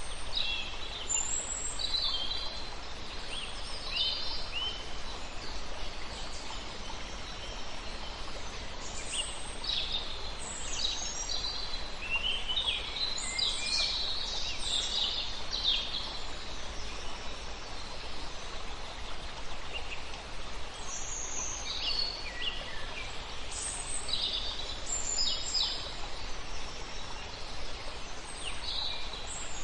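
Several songbirds chirping and trilling in scattered clusters, over the steady rushing hiss of a river.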